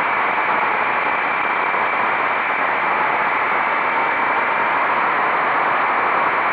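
Steady rush of wind noise from a motorcycle riding at speed, with the bike's engine faint beneath it.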